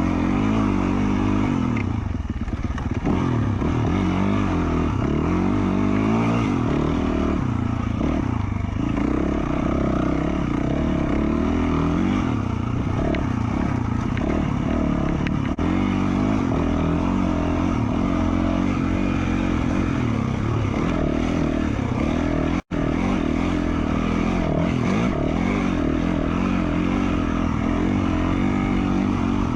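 2020 Yamaha YZ450F's single-cylinder four-stroke engine, breathing through an FMF Q4 slip-on, running hard on trail as the revs rise and fall with the throttle. The sound cuts out for an instant about three-quarters of the way through.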